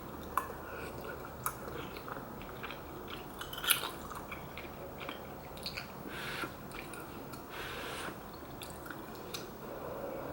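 Close-miked eating of rice cake and dumpling soup: soft chewing and mouth sounds, with scattered light clicks of utensils.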